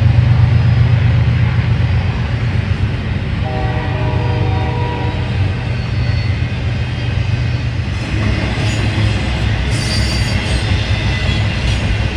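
Train passing with a low diesel rumble. A locomotive horn sounds for about two seconds a few seconds in. From about eight seconds in, rail and wheel noise grows, with brief high wheel squeals.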